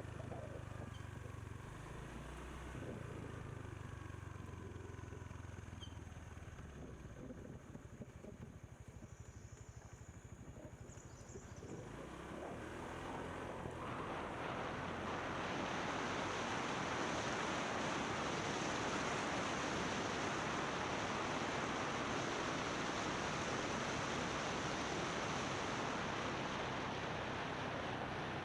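Motorbike running on a mountain descent, heard through an action camera's microphone. A low engine hum sits under wind, and about halfway through a loud, steady wind rush on the microphone takes over.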